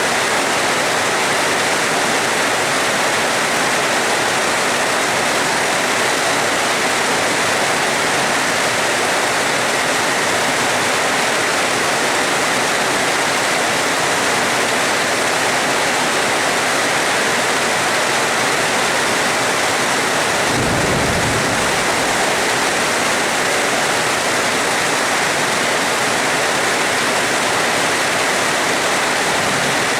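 Steady rain, with a short low rumble of thunder about two-thirds of the way through.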